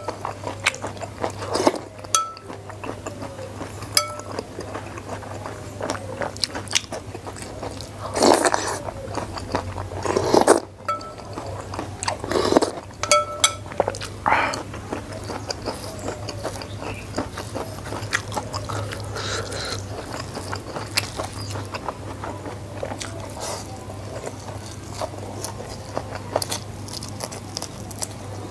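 Close-miked chewing and crunching of a meal of rice, salted fish and raw vegetables, with wet mouth sounds and a few light clinks of a spoon on a bowl, over a steady low hum.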